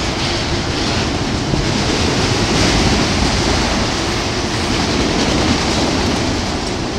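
Freight train's autorack cars rolling past close by: a steady, loud noise of steel wheels running on the rails.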